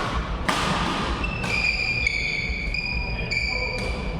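Badminton rally on an indoor court: sharp hits of racket on shuttlecock about half a second and a second and a half in, followed by a run of high-pitched squeaks from court shoes sliding on the floor.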